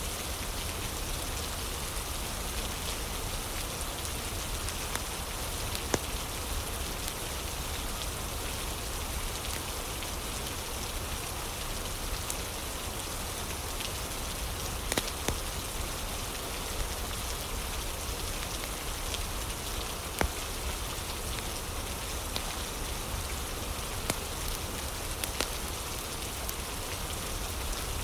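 Steady rain falling, with scattered sharp crackles and pops of a wood fire, a few louder ones standing out now and then.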